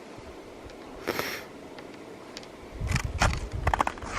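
Handling noise on a camera's built-in microphone: a short puff of noise about a second in, then a run of knocks, rubbing and low rumbling in the last second and a half as the camera and tripod are handled.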